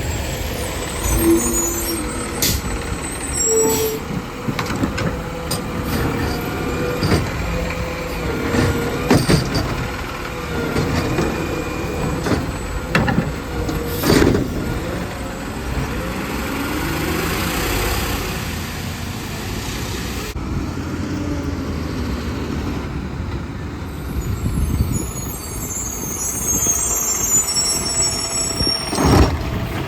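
Garbage truck working at the curb: engine running with repeated clanks and bangs, and a long air hiss about sixteen to twenty seconds in.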